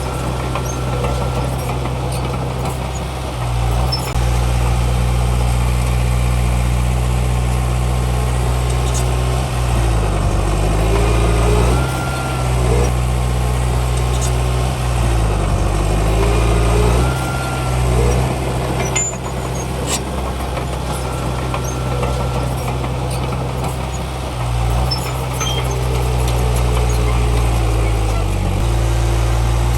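Heavy diesel engine of a Komatsu D31P crawler bulldozer running under changing load, its pitch dropping and rising again several times as it pushes soil, with a faint whine rising and falling alongside.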